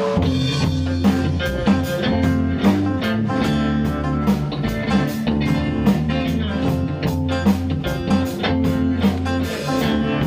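Blues-rock band playing an instrumental passage: electric guitar over bass and a drum kit keeping a steady beat.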